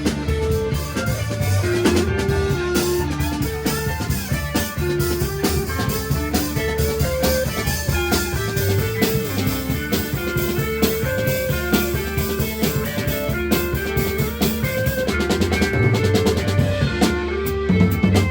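Live rock band playing an instrumental passage with no vocals: a repeating melodic figure of short notes over a driving drum kit.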